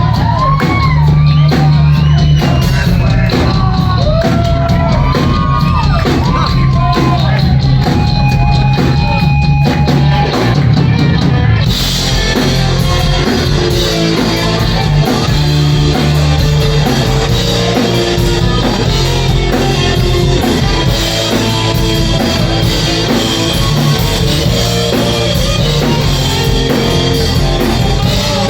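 Rock band playing loudly with drums, bass and guitar, a voice singing over it at first; about twelve seconds in the voice drops out and the band goes on with a brighter guitar and cymbal sound.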